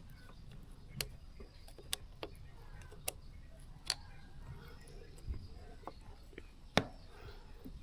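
Scattered light clicks and taps at irregular intervals, the loudest near the end, over a low steady background hum.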